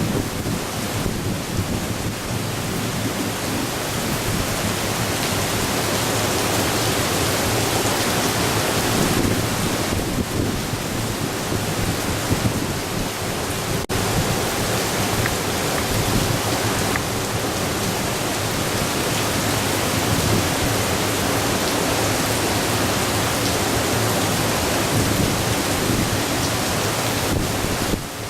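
Typhoon storm: heavy rain and strong wind making a steady, loud rushing noise.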